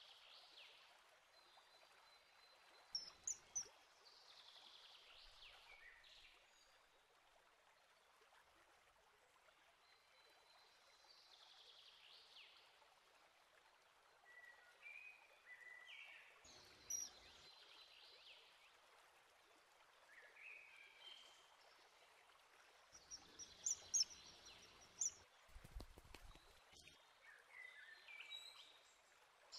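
Quiet outdoor ambience with a faint steady hiss and small birds calling now and then in short high chirps, a little louder about three seconds in, in the middle, and near the end.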